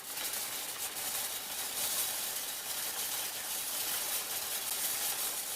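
Steady hiss-like background noise, strongest in the high range and without any tone or rhythm in it, fading out near the end.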